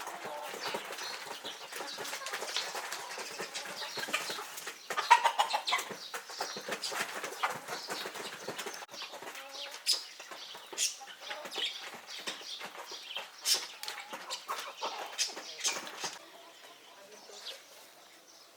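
A flock of chickens clucking and flapping their wings among many short sharp clicks and rustles. The activity is busiest at first and dies down near the end.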